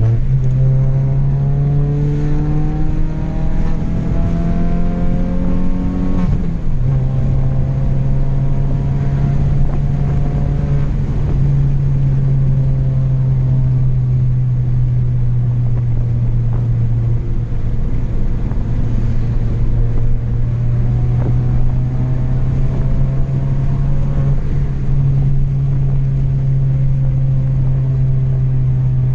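Chevrolet Astra 2.0 four-cylinder engine with a straight-through exhaust, driving: it pulls up through a gear with rising pitch for about six seconds, drops in pitch on an upshift, then drones steadily at cruise with small throttle changes.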